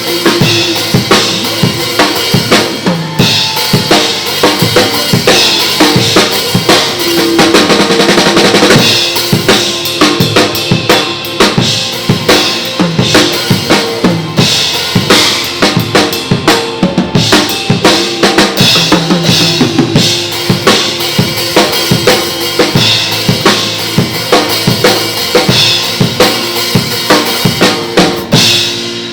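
Acoustic drum kit played over a pop backing track: kick, snare and cymbal strokes in a steady groove. The drumming stops just before the end while the backing music plays on.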